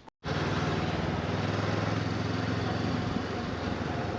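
Honda CB500X motorcycle's parallel-twin engine running steadily, with a broad hiss over it. It starts abruptly just after the beginning.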